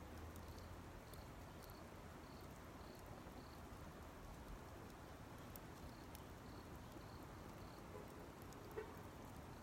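Small campfire of Japanese cedar needles burning quietly, with faint sparse crackles and one sharper pop near the end. An insect chirps at about two chirps a second, pausing for a couple of seconds in the middle.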